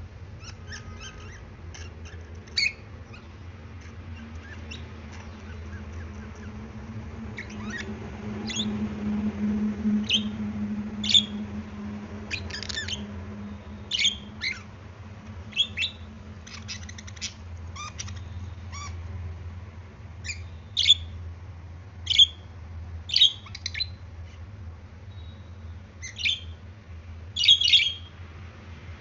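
Pet budgerigars chirping and squawking in short, sharp calls scattered throughout, a few louder ones in the second half. A low steady hum runs underneath.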